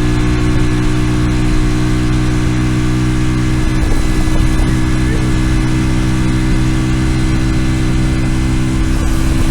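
140cc single-cylinder mini bike engine running at a steady speed through a stainless steel side-exit exhaust, its note holding one even pitch.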